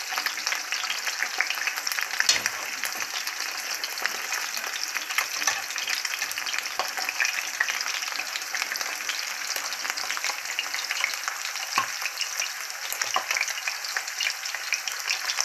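Pieces of lamb liver sizzling and crackling in hot vegetable oil in a thick-walled cast-iron frying pan. A few sharper clicks come from a slotted metal spatula turning the pieces.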